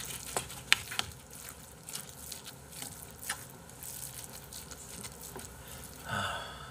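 A person chewing a mouthful of soft rice and monkfish: wet mouth sounds with many small clicks, the sharpest in the first second.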